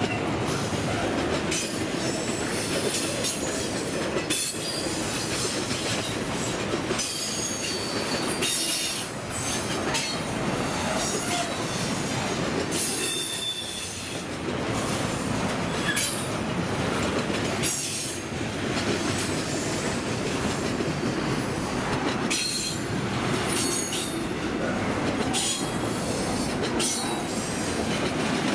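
Norfolk Southern intermodal freight train rolling steadily past: a continuous rumble of cars, with wheels squealing in high tones now and then and clicks as the wheels cross rail joints.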